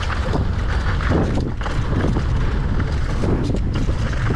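Heavy wind buffeting the microphone during a fast mountain-bike run, with scattered clattering knocks from the bike on rough ground.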